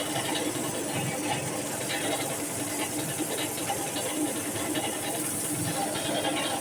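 Sawmill running steadily as its blade cuts through a walnut log, a constant hum under a high hiss.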